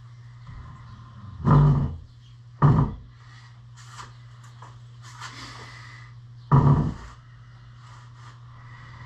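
Three heavy thumps, about 1.5, 2.6 and 6.5 seconds in, over a steady low hum.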